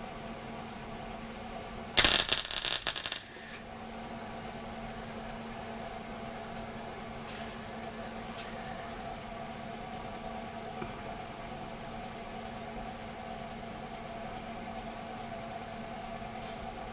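Welder arc crackling in one burst of about a second and a half, laying a tack weld on a door repair section, over a steady low hum.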